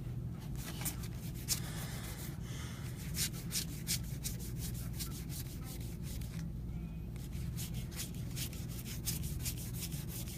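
Trading cards sliding and rubbing against one another as a stack is flipped through by hand, a quick irregular run of short scuffs. A steady low hum lies underneath.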